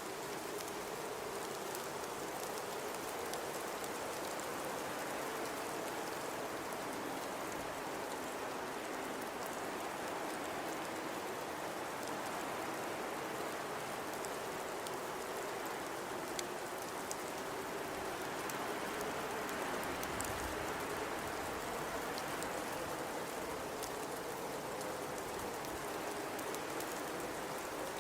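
Blizzard wind blowing steadily, with a low moaning howl that slowly rises and falls in pitch, over a constant hiss of wind-driven snow. A brief low gust rumbles about twenty seconds in.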